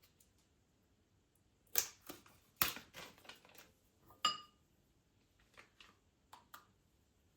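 Small hard objects being handled and set down: a quick run of clicks and knocks, ending about four seconds in with one clink that rings on briefly, then a few fainter clicks.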